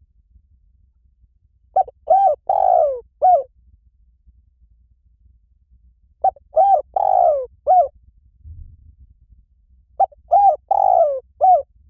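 Spotted dove cooing: three identical phrases about four seconds apart, each of four notes, the third note longer and falling in pitch.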